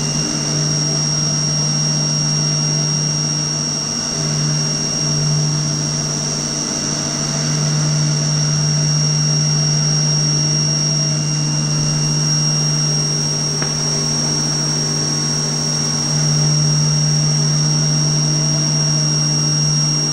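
CNC lathe with live tooling running during a turning operation: a steady low machine hum under a constant high whine. The hum dips briefly a few seconds in and picks up again.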